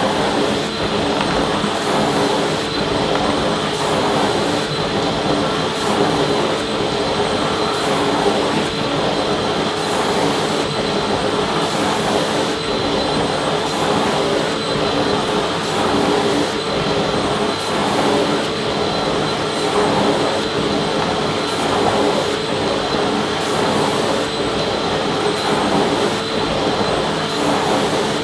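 Vacuum cleaner running continuously: a steady motor hum and airflow rush with a constant high whine, no change in pitch or level.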